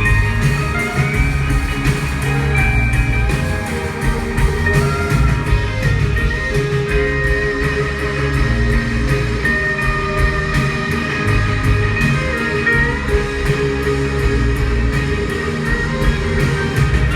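Live band music in an instrumental passage with no singing, led by guitar over steady low notes and an even beat.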